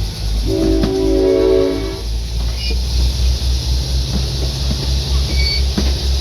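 A locomotive sounds one chord-like blast of its horn or whistle lasting about a second and a half, starting about half a second in. A low, steady throb of the locomotive's engine runs beneath it.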